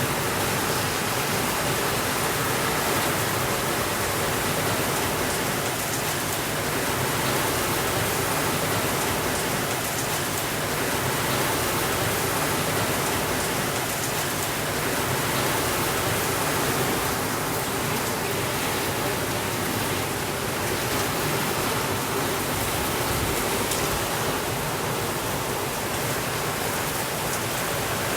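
Steady rainfall, a continuous even hiss with no thunder.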